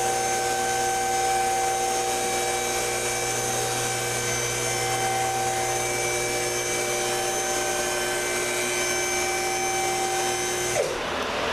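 Electric motor of a vehicle lift's hydraulic pump running steadily as it raises the car off the removed engine, then shutting off near the end with a falling whine as it spins down.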